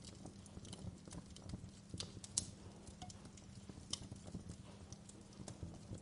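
Wood fire crackling: irregular sharp pops and snaps over a low, steady rumble, with the sharpest pop about two and a half seconds in.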